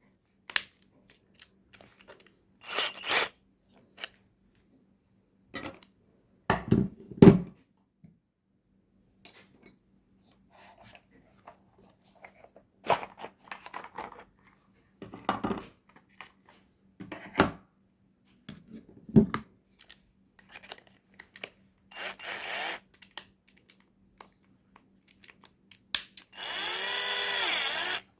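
Handling of a TOTAL cordless drill: scattered clicks and knocks, then the drill's motor running for about two seconds near the end.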